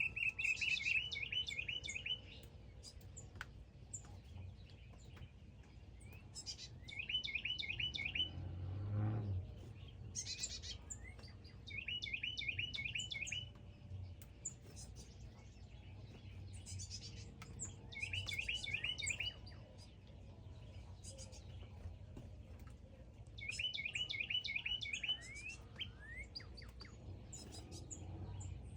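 A songbird sings the same short phrase of quick rising chirps over and over, about every five to six seconds, with a soft low thump about nine seconds in.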